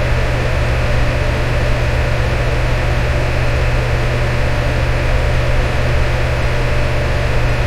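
Electric fan running steadily: an even rush of air over a strong low hum, with no changes.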